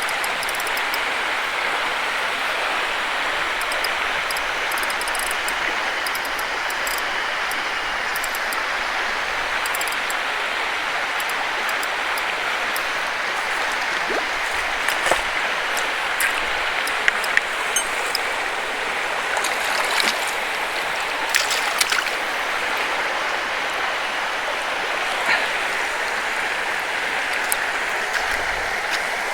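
Mountain stream rushing steadily over rocks, with a scattering of short sharp clicks, most of them through the middle.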